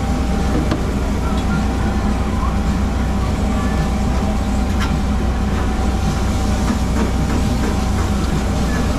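An engine running steadily: a loud, even low drone with a constant whining tone above it and a few faint clicks.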